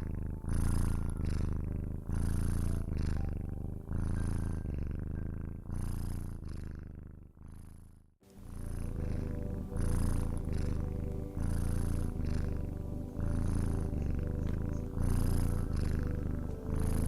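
Domestic cat purring close to the microphone, a low rumble that swells and fades about once a second with each breath in and out. It drops out for a moment about eight seconds in, then carries on.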